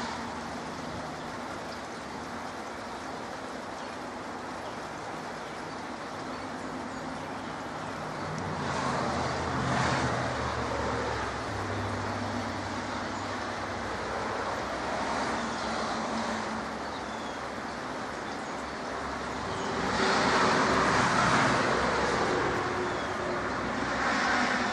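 Steady rain with cars passing on a wet road. Their tyre hiss swells and fades about nine seconds in, again around twenty seconds in, and briefly near the end.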